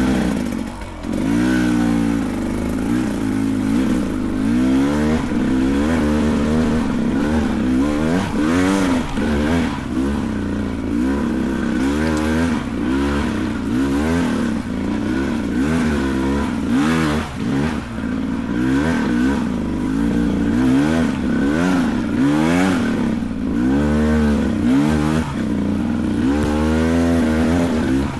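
Beta 300 two-stroke dirt bike engine revving up and down over and over under throttle on a climb, with scattered knocks and clatter.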